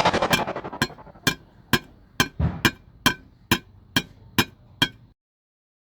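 Railroad crossing warning bell ringing in even strikes, about two a second, over a dense clatter that fades out in the first half second. It stops suddenly about five seconds in.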